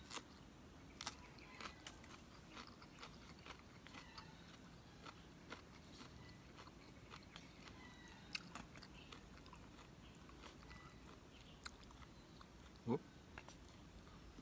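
Close-up mouth sounds of a person chewing and biting instant pancit canton noodles and a fresh green chili: many small, sharp crunchy clicks scattered irregularly over a quiet background. Near the end there is one brief hum.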